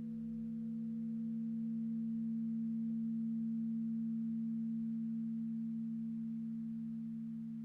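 Crystal singing bowls ringing on in a low, steady, pure hum of a few close tones, which swells a little and then slowly fades.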